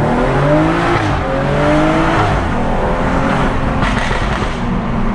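Remapped BMW M135i's turbocharged straight-six accelerating hard from a standstill, heard from inside the cabin: the revs climb and fall back at each of three quick upshifts.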